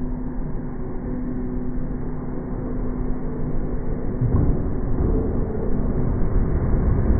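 NS VIRM double-deck electric train approaching and running over the level crossing, its rumble growing louder and much heavier about four seconds in as it reaches the crossing.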